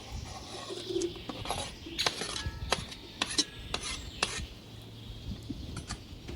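Metal spoon stirring in a metal cooking pot, scraping and knocking against the pot about a dozen times, some knocks ringing briefly.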